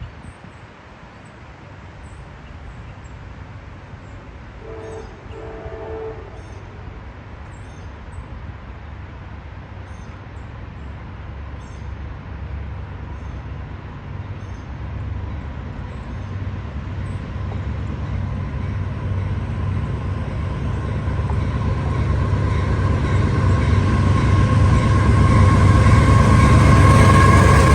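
A CSX freight train's diesel locomotives approach with a low rumble that grows steadily louder. The locomotive horn sounds briefly about five seconds in.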